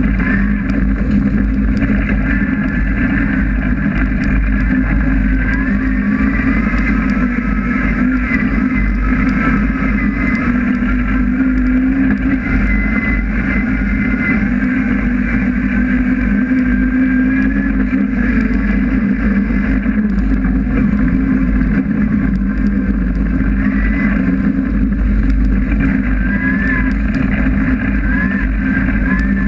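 Honda S2000's 2.4-litre 16-valve four-cylinder engine running hard under load, heard from inside the stripped cabin, its pitch wandering up and down with the throttle as the car is driven at racing speed.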